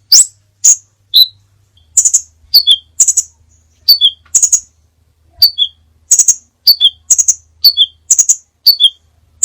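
Crimson sunbird calling: a rapid series of short, sharp, high-pitched chirps, about two a second, with a brief pause a little over a second in.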